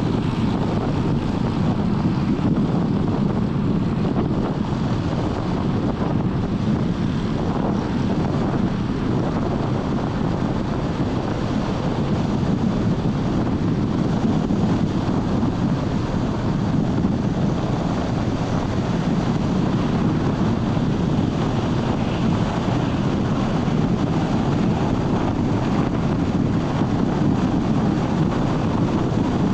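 Steady road noise from a car driving: an even low rumble of tyres and engine with wind noise, unchanging throughout.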